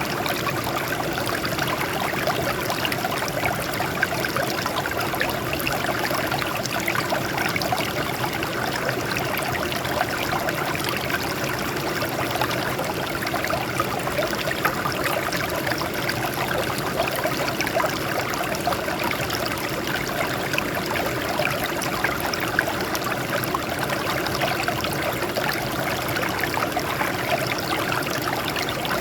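Water running and splashing over rocks, a steady babbling flow with fine gurgling detail.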